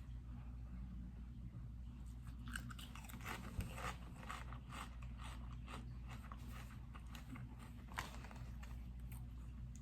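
A person chewing food, faint, with scattered crisp crunches clustered about three to four seconds in and one near eight seconds, over a low steady hum.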